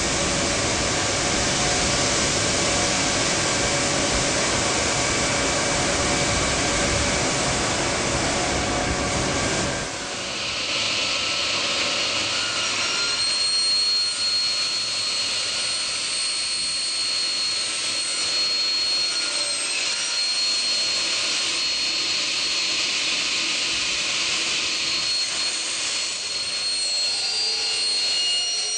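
Double-head CNC profile cutting saw running, a loud steady machine noise. About ten seconds in, the deep full noise drops away, leaving a thinner whine with a steady high tone.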